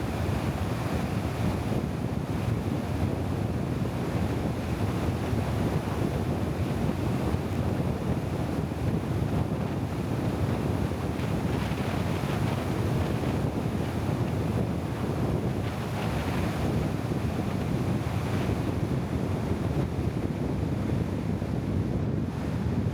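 Steady low noise with wind buffeting the microphone, unbroken and even.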